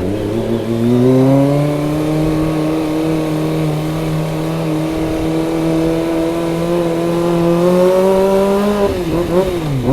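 Kawasaki ZX25R's 250 cc inline-four engine rising in pitch as the bike accelerates, then holding a steady, slowly climbing note. Near the end the note drops as the throttle eases off, then starts to climb again.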